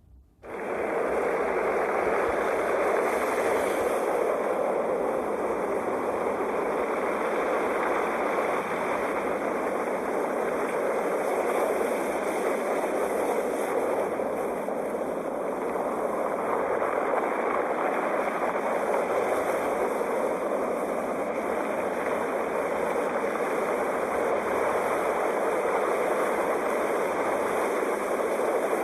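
Sea waves washing on the shore in a steady, continuous surf with only gentle rises and falls in level. It comes in about half a second in after a brief silence.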